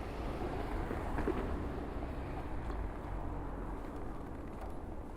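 City street ambience: a steady low traffic rumble with a faint steady tone over it.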